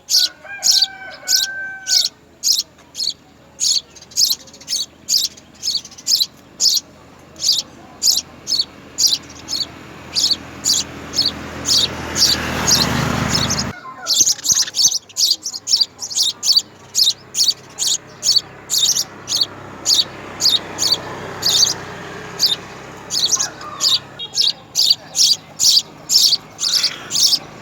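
House sparrow chirping over and over, about two short, high chirps a second. A rushing background noise swells and then cuts off abruptly about 14 seconds in.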